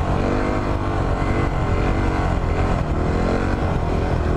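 Yamaha WR250R's single-cylinder engine running while under way, the revs rising and falling several times.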